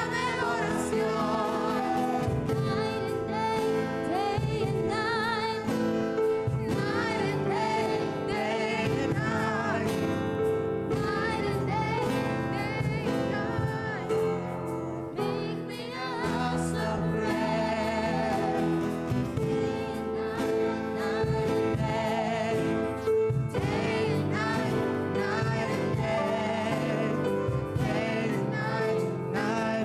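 Live gospel worship singing, with held, wavering notes carried on continuously.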